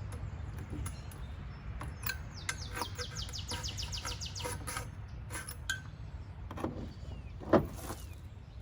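A small bird singing fast runs of high, evenly spaced chirps, over a steady low rumble. Scattered light clicks and one loud knock about seven and a half seconds in come from parts being handled.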